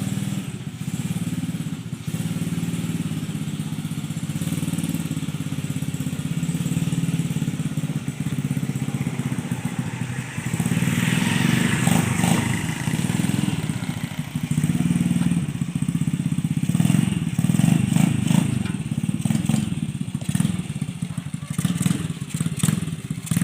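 Small engine of a homemade mini tractor running steadily, its level rising and falling as it works, with a few sharp clicks near the end.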